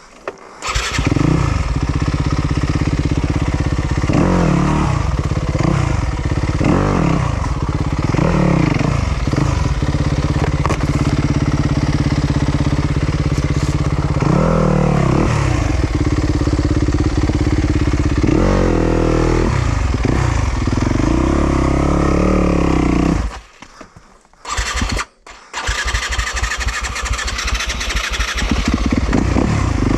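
Yamaha YZ250FX's 250cc four-stroke single-cylinder dirt-bike engine starting about half a second in, then running and revving up and down repeatedly. About three quarters of the way through it cuts out for a couple of seconds, then runs again.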